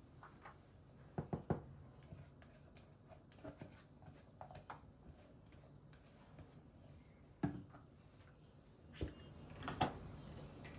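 Light knocks and clicks of household objects being handled and set down: a quick cluster about a second in, one more a little past the middle, and two near the end.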